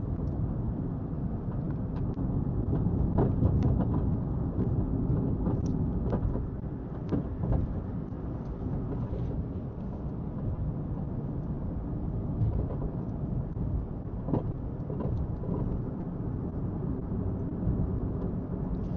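Car on the move: steady low rumble of tyres and engine, with a few faint clicks.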